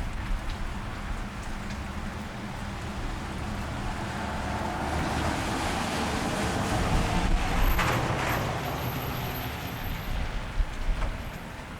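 A vehicle passing on a rain-wet street, its tyres hissing on the wet road as it approaches, peaks about two-thirds of the way through and fades away, over steady rain. A thin high-pitched whine sounds briefly near the peak.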